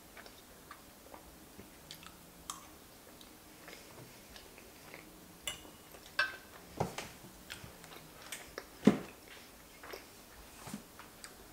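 Close-up mouth sounds of chewing soft, sauced pasta: quiet wet smacks and clicks at an irregular pace. About six seconds in, a fork clinks against the enamelled pan, and a sharper knock comes about nine seconds in.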